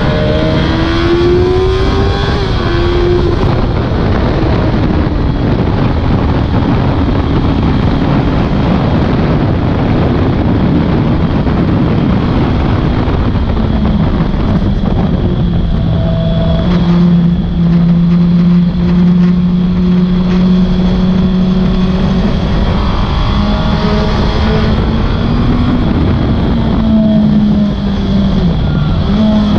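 Suzuki GSX-R1000 K6 inline-four at high revs on track, its pitch rising and falling through gear changes under a loud rush of wind noise. About halfway through the engine holds one high note for several seconds, then the pitch dips and climbs again near the end.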